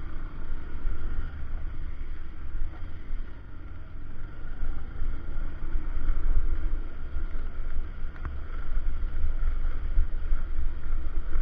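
Wind buffeting the microphone on a moving motorcycle, a heavy gusting rumble over the steady running of the bike.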